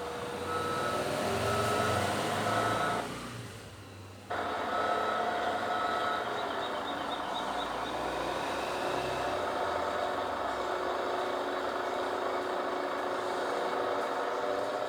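Heavy vehicle engine running steadily, with a repeating electronic beep like a reversing alarm during the first few seconds; the sound falls away and cuts back in sharply about four seconds in.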